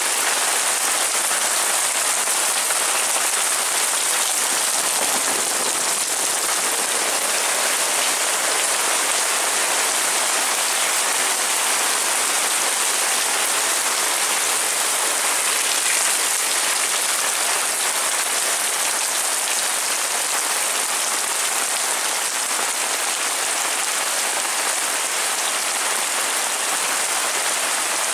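Heavy rain falling steadily: a dense, even hiss of rain that holds at one level throughout.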